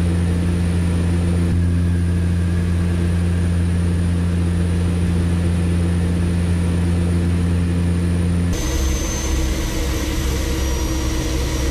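Steady drone of aircraft engines. It changes abruptly about eight and a half seconds in, where the footage cuts to another steady engine drone.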